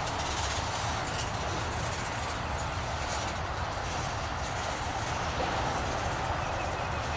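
Train rolling past: a steady rumble and rail noise from the cars on the track.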